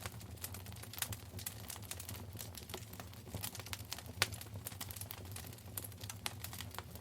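Wood fire in a fireplace crackling, with frequent irregular snaps and pops over a steady low rumble. The sharpest pop comes about four seconds in.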